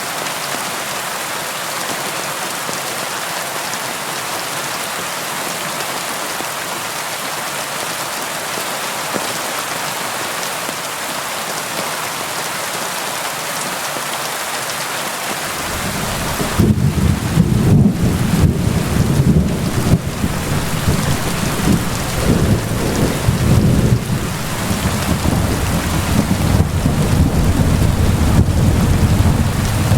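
Steady rain falling, an even hiss. About halfway through, a long rolling rumble of thunder starts and keeps rumbling unevenly under the rain.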